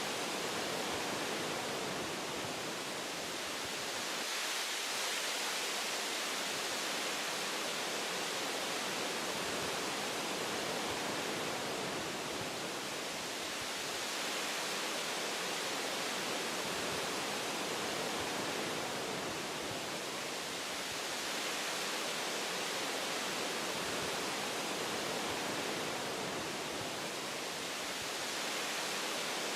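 Wind blowing through forest tree branches: a steady rushing hiss that swells and eases gently every several seconds.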